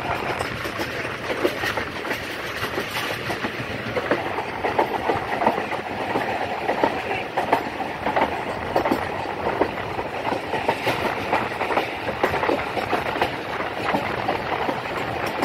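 Millat Express passenger train running on the line: a steady rumble with frequent irregular clicks and knocks from the wheels on the track.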